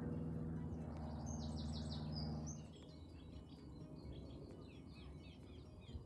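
A low held chord of background music that ends about two and a half seconds in, with small birds chirping and calling throughout.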